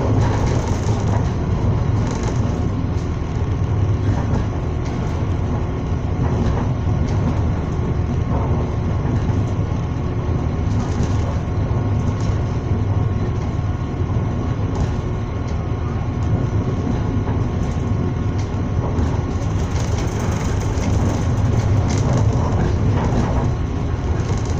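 Steady running rumble of a Srbija Voz passenger train at speed, heard on board, with a few faint clicks from the wheels on the rails.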